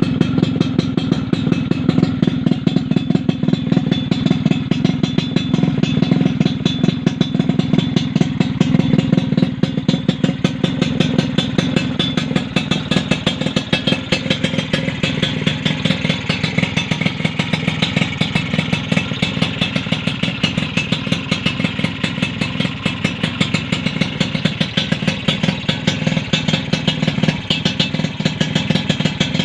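Motorcycle engine idling through an aftermarket chrome under-slung exhaust, a steady fast pulsing beat with no revs.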